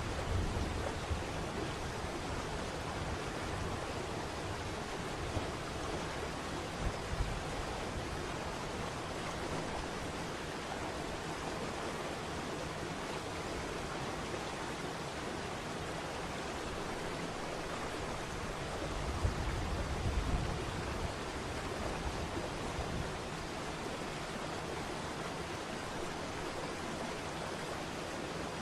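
Steady, even rushing of a waterfall, falling water hissing without a break, with a brief low rumble about two-thirds of the way through.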